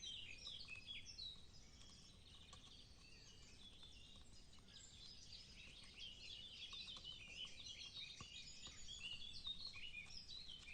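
Faint chorus of songbirds, many short overlapping chirps and trills.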